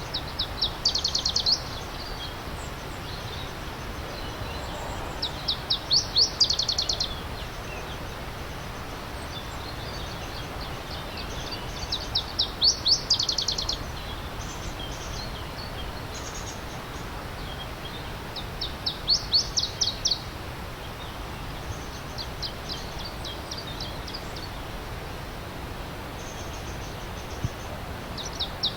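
A songbird sings the same short phrase about every six or seven seconds, each a quick run of high repeated notes that grows louder, over the steady rush of a stream.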